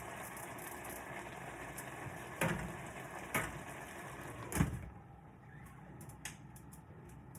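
Kitchen cookware sounds: three knocks over a steady hiss. The hiss drops away about five seconds in, and a few faint clicks follow.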